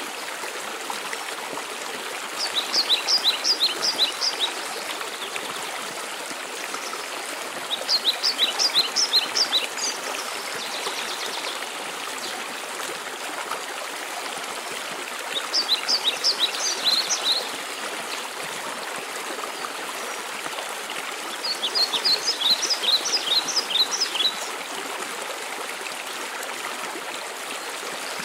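Waterfall rushing steadily. Over it a songbird sings a short phrase of quick, high repeated notes four times, about every six seconds.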